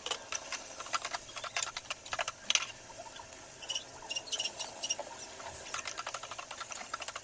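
Rapid, irregular clicking and rattling, loudest about two and a half seconds in.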